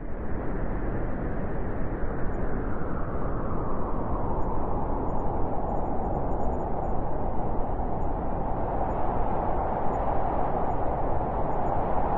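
Blizzard wind blowing steadily, a dense rushing noise that gets somewhat stronger and higher in its middle range toward the end.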